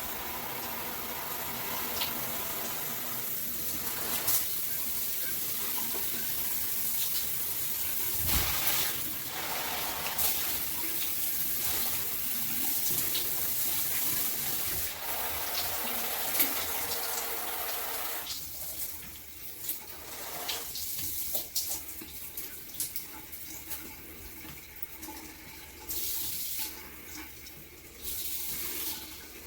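Water spraying from a filtered shower head, a steady rush for most of the first twenty seconds, then quieter and uneven with brief splashes.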